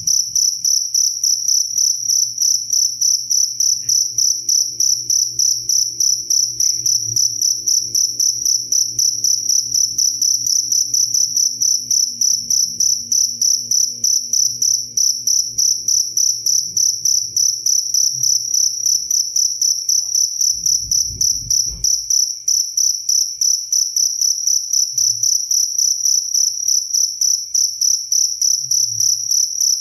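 Cricket chirping, a steady high-pitched trill pulsing about three to four times a second without pause.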